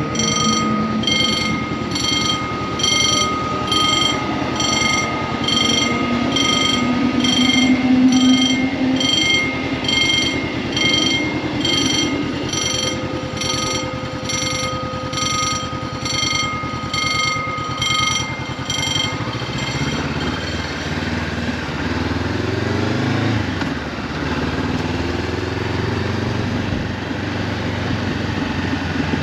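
A crossing's electronic warning signal beeping about twice a second over a Honda CB500F's parallel-twin engine idling. The signal stops about two-thirds of the way through, and the engine revs as the motorcycle pulls away.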